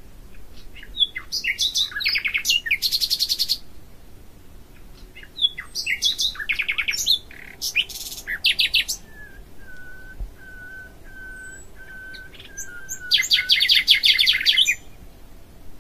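Songbirds singing: three bursts of rapid, high trills and chirps a few seconds apart, and between the second and third a run of short, evenly spaced lower piping notes.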